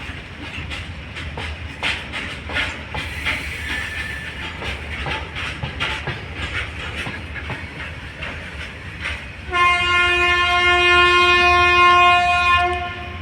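Heavily loaded freight wagons rolling over the rails, their wheels knocking in quick clatters over the rail joints. About nine and a half seconds in, a train horn sounds one long steady blast of about three seconds.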